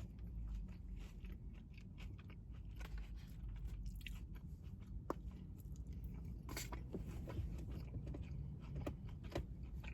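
A person chewing food close to the microphone, with soft scattered mouth clicks over a faint low hum.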